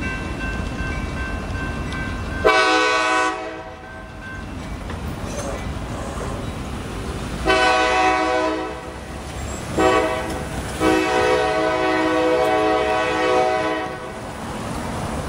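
Freight locomotive horn sounding the grade-crossing signal: two long blasts, a short one and a final long one of about three seconds, over the steady rumble of the train.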